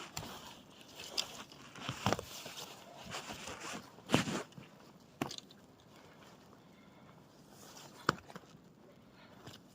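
Footsteps crunching in snow, a few uneven steps with a loud crunch about four seconds in, then sparser steps.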